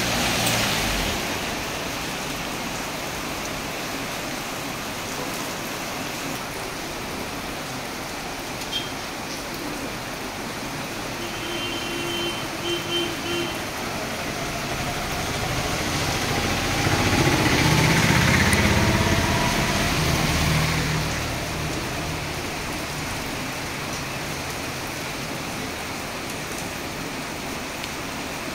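Heavy rain falling steadily on a street, with vehicles driving past on the wet road: one right at the start and a louder one, engine rumble and tyre spray, about 16 to 21 seconds in. Three short beeps sound about 12 seconds in.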